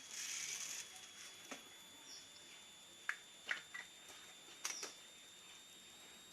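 A caged white-headed munia (prit kaji) flutters its wings briefly at the start, then hops about with a few sharp clicks and gives several very short, faint cheeps. A faint steady high-pitched tone sits underneath.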